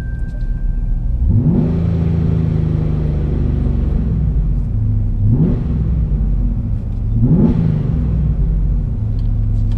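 Supercharged 5.7 Hemi V8 with long-tube headers and a Corsa sport exhaust, heard from inside the cabin, pulling away: the engine pitch rises sharply three times, about 1.5, 5.5 and 7.5 seconds in, then settles each time, as the SUV accelerates through the gears.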